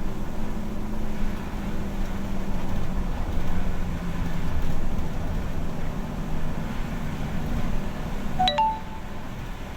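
Bus running, heard inside the cabin: a steady engine hum under road noise. About eight and a half seconds in, a short electronic chime of a few notes sounds once.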